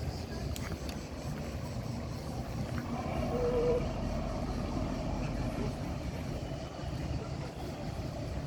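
Steady low rumble of outdoor background noise, with a short wavering tone about three and a half seconds in.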